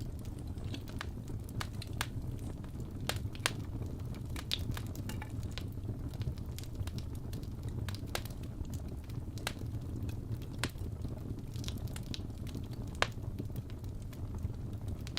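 Fireplace fire crackling: irregular sharp pops, one or two a second, over a steady low rumble.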